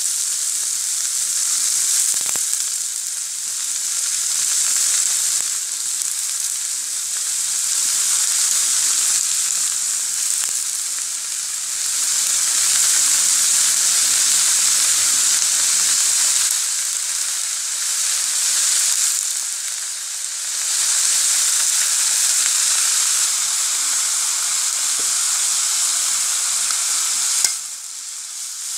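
Sliced vegetables sizzling in hot oil in an iron karahi, a steady hiss that swells and eases. Near the end a spoon stirs and scrapes through them.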